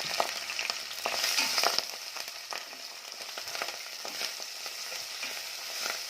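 Celery, sliced garlic and onion sizzling in a little hot oil in a cooking pot, a steady hiss dotted with crackles, being stirred; it is louder for a moment about a second in.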